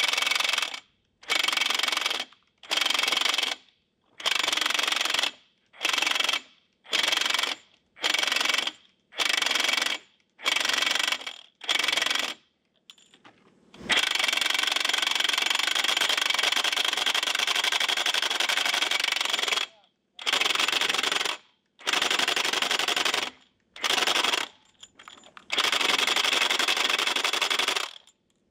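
Milwaukee M18 FUEL 1-inch extended-anvil D-handle cordless impact wrench hammering on an over-tightened Budd nut on a semi-truck wheel. It starts as a string of about a dozen short trigger pulls, then runs for about six seconds, then comes a few more pulls and a last run of about two seconds. The nut does not break loose: the gun, hot from earlier work, is not as strong as the air impact that tightened it.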